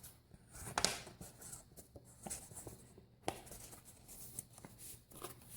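Paper pages of a handmade junk journal being turned and handled: soft rustling with a few crisp snaps and taps, the sharpest about a second in.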